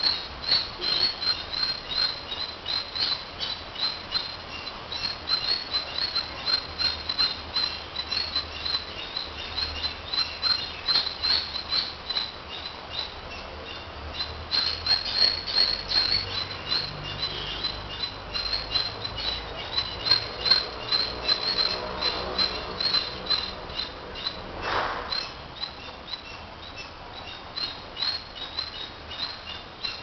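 Tailorbird chirping: a rapid string of short, high chirps, several a second, rising and falling in loudness.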